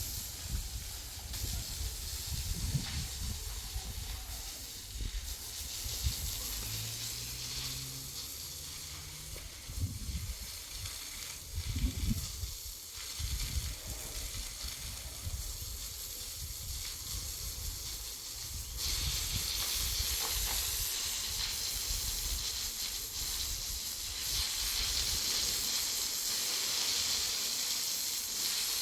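Steady hissing noise with uneven low rumbling, growing louder about two-thirds of the way through.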